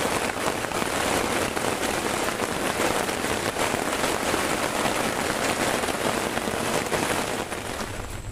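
Heavy rain falling, a dense, steady patter of countless drops hitting a surface.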